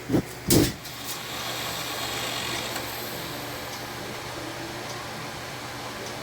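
A steady mechanical hum, with two loud knocks in the first second.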